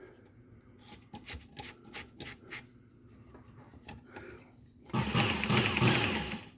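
Small clicks and rubbing from handling a Work Sharp Ken Onion sharpener while a fine cloth belt is fitted, with a louder stretch of scraping and rubbing about five seconds in that lasts a second or so.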